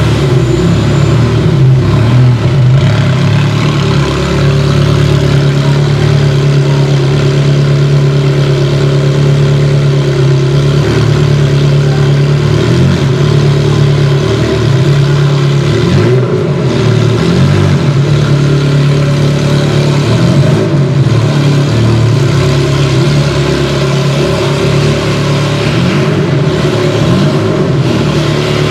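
Ferrari 360 Challenge Stradale's 3.6-litre V8 running at low revs. It holds steady at first, then from about halfway the revs rise and fall gently in small swells.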